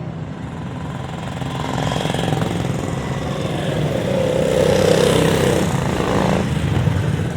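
Vintage motorcycle engines running in a steady low drone, with one machine passing close, getting louder to a peak about five seconds in and then easing off.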